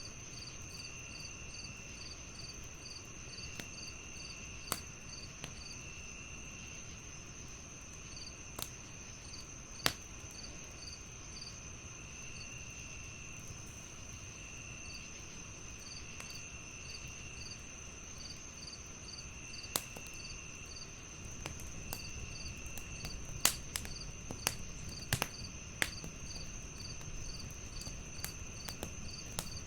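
Night insects, crickets among them: a steady high trill, quick even chirping, and a lower trill that keeps starting and stopping. Over them come scattered sharp pops and crackles of a wood fire, more frequent in the last several seconds.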